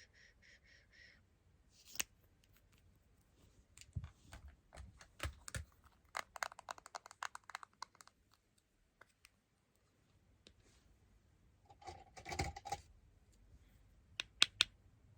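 Light taps, clicks and scratches of small craft parts and tools being handled against a smartphone during lens decorating. There is a quick run of rapid clicking about six seconds in, and a couple of sharp clicks near the end.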